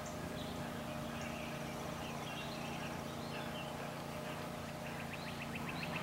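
Faint bird chirps over a steady low outdoor hum. A fast, even ticking starts near the end.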